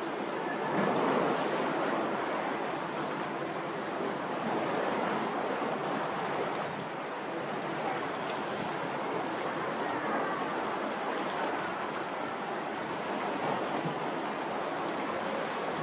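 Steady outdoor wind and water noise, even throughout with no distinct events.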